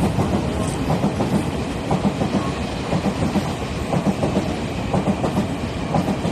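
A train passing close by, its wheels clacking steadily and repeatedly over the rail joints.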